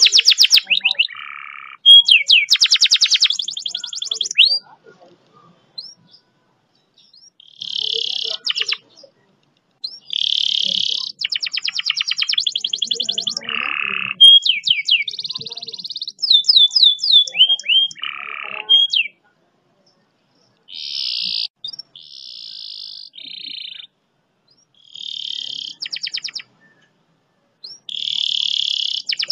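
Domestic canary singing a masteran song in phrases of fast rolls and rattling trills, with quick falling whistled notes. Short pauses fall between phrases, the longest about 5 s in and about 19 s in.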